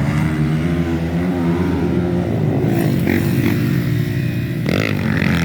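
Motocross dirt bike engines running on the track, their pitch rising and falling as the riders work the throttle.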